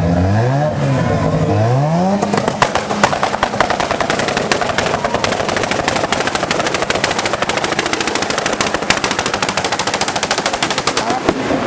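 A turbocharged race car's engine revs up in pitch, then its exhaust breaks into a long, rapid string of machine-gun-like pops and bangs. The pitch rises again near the end.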